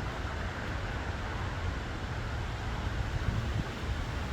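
Steady low rumble of distant expressway traffic, with no distinct events.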